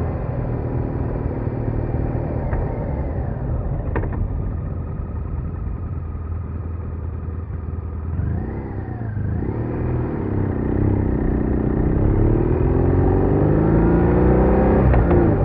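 BMW R1200R's flat-twin boxer engine under way on the road: the engine note dips about halfway through, then rises steadily as the bike accelerates, with a sudden drop in pitch near the end like a gear change.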